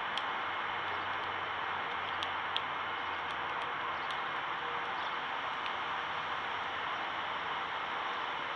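Steady hiss with a few faint, sharp clicks scattered through it.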